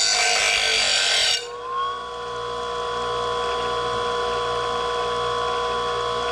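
Electric grinder grinding the edge of a steel mower blade: a harsh grinding hiss that cuts off about a second and a half in. The grinder then spins free, its motor whine rising briefly and then holding steady.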